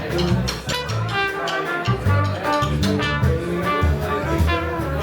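Live jazz band playing, a brass horn carrying the melody over a moving bass line and drums.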